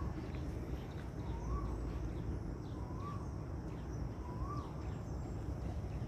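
A bird repeating one short call, a quick rising-and-falling whistle, about every second and a half, with fainter high chirps from other birds over a low steady rumble.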